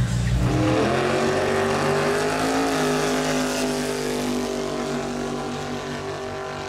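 Drag race car engine accelerating hard down the track: its pitch climbs for about two seconds, then holds high while the sound slowly fades as the car pulls away.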